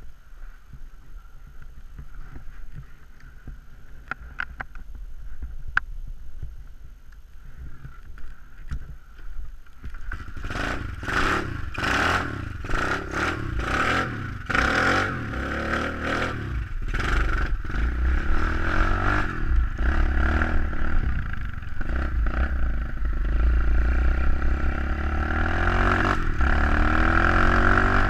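SSR 125cc pit bike's four-stroke single-cylinder engine. It is fairly quiet at first, then about ten seconds in comes a run of short loud bursts as the bike gets going, and from about halfway on it runs steadily and louder under way.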